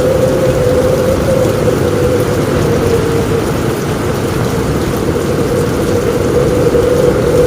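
Steady heavy rain falling on a roof, with a constant low rumble underneath and a steady hum running through it.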